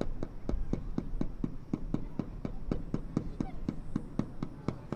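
Fireworks going off far away in a rapid, even barrage of bangs, about five a second, over a low rumble.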